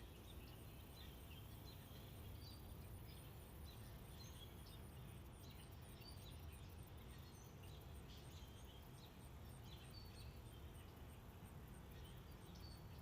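Faint outdoor ambience: many short, scattered bird chirps over a steady low rumble, with a faint, evenly repeating high pulsing.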